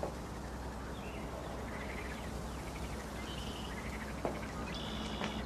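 Faint birdsong over quiet outdoor ambience with a steady low hum, and a single soft knock about four seconds in.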